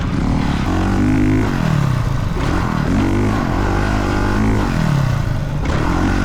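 Honda CRF dirt bike engine revving up and easing off on the throttle, its pitch climbing and dropping about three times.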